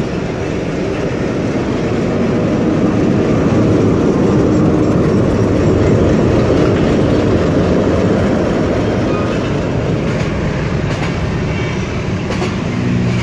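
Passenger train running on rails, heard from an open coach doorway: a steady rumble with wheel clatter, swelling in the middle as the coach runs close past the coaches and locomotive of a train on the next track, with a few sharp clicks near the end.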